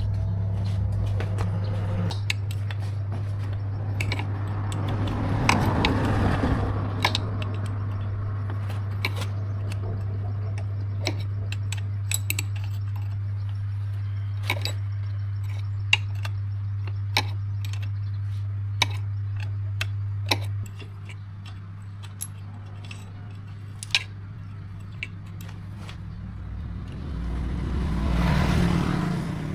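A steady low machine hum that stops about 20 seconds in, with scattered sharp clicks and taps throughout. A rushing noise swells up and fades twice, a few seconds in and near the end.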